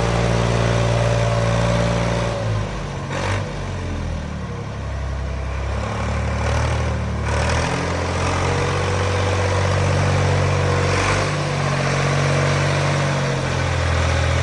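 Ford F455A tractor engine running steadily. About two and a half seconds in its speed drops and the sound gets quieter, then it comes back up to the earlier pace around eight seconds in.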